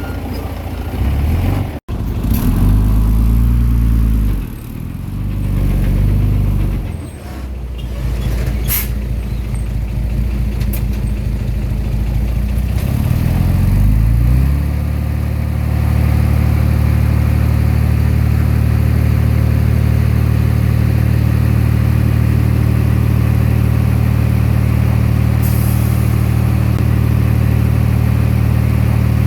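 Komatsu D20P bulldozer's diesel engine working, its pitch rising and falling repeatedly as it revs under load during the first half. About halfway through it settles into a steady, even run.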